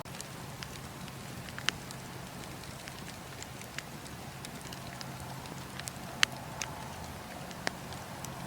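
Campfire burning: a steady hiss and low rumble with scattered sharp crackles and pops, the loudest about six seconds in.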